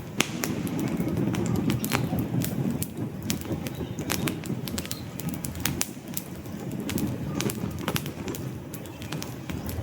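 Wood campfire crackling: many irregular sharp pops and snaps over a low, steady rumble of burning flames.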